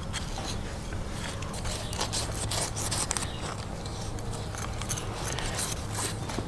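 Knife working on tough crocodile hide or being sharpened: irregular short scraping and rasping strokes, with a steady low hum underneath.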